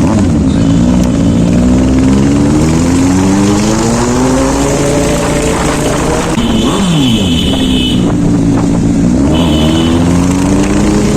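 Suzuki GSX-S750 inline-four engine under way, its pitch climbing slowly with speed, easing off, then climbing again, with wind rushing over the microphone. Short high-pitched beeps sound about two-thirds of the way in and twice more near the end.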